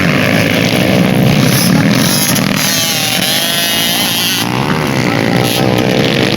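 Racing motorcycle engines revving on a dirt track, their pitch rising and falling as they accelerate and ease off.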